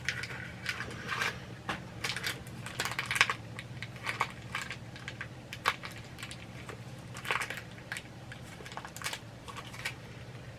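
Hands opening a small cardboard mystery pin box and handling its packaging: irregular crinkling and crackling with scattered light clicks.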